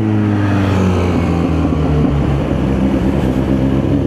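Kawasaki Z900's inline-four engine running steadily at low revs while cruising. Its pitch eases down slightly in the first second, then holds.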